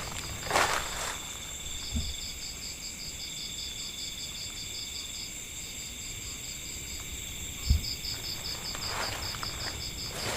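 Crickets and other night insects chirping steadily in a fast pulsed trill, over a thin high insect whine. A few soft rustles and knocks from movement in the undergrowth break in briefly.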